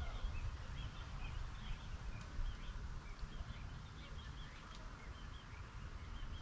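Small birds chirping, many short high notes scattered throughout, over a low rumble.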